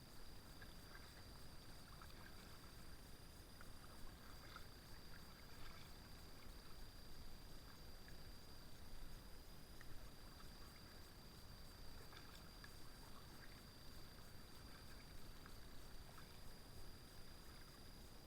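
Faint kayak paddling on a river: light paddle splashes and drips in the water, with a steady faint high whine.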